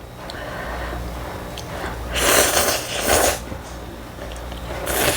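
Noodles of spicy ramyun being slurped up from close to the mouth: two short slurps in quick succession about two seconds in and another near the end.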